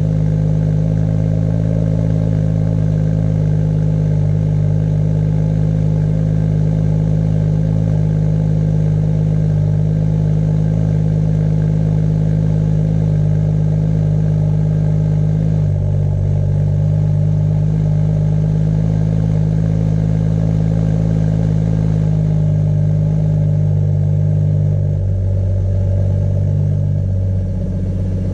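BMW M140i's 3.0-litre turbocharged straight-six idling steadily through its standard exhaust, the idle speed stepping down a little a few times in the second half.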